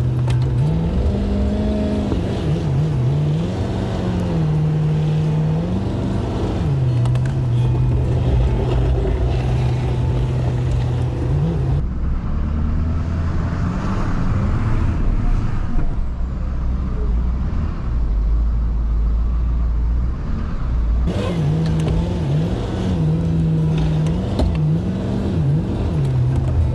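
Plow truck's engine running and revving up and down as it pushes heavy, wet snow. For about nine seconds in the middle the sound changes to a duller low rumble, then the rising and falling engine note returns.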